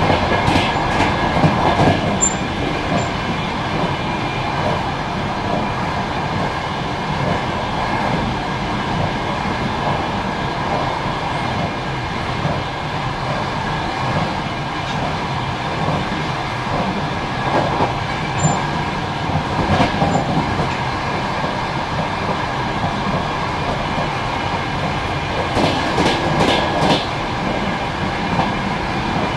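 Passenger train carriage running along the track, heard from inside the last car: a steady rumble and hiss of wheels on rail. A few short runs of clicks from the wheels come through, the clearest near the end.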